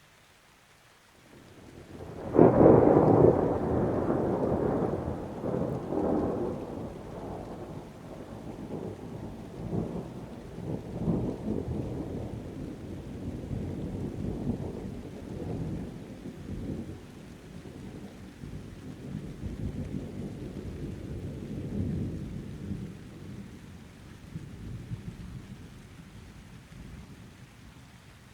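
Thunder: a sharp clap about two seconds in, then a long rolling rumble that pulses unevenly and slowly fades, over light steady rain.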